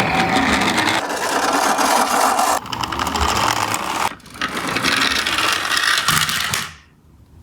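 Toy minicars being handled, their plastic and die-cast bodies and wheels rattling and rasping in several stretches, stopping near the end.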